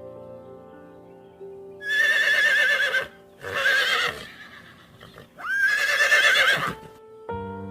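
A horse whinnying three times, each call a quavering cry of about a second, the last one opening with a rising sweep. Soft background music plays before the calls and returns near the end.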